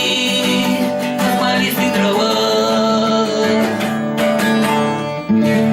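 Acoustic guitar strumming chords: an instrumental passage after the last sung line of the song.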